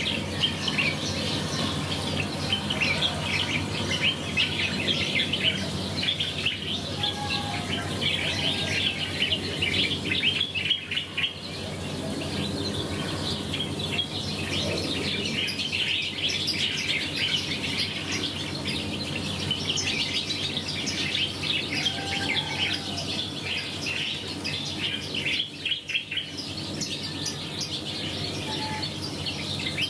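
A dense chorus of many small birds chirping and twittering without pause, over a faint steady low hum.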